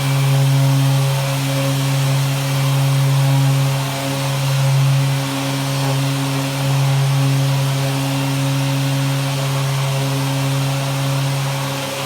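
Dustless sanding unit running: a sander hooked to a dust-extraction vacuum, giving a steady motor hum with a hiss of air above it. The level swells and dips slightly every second or two.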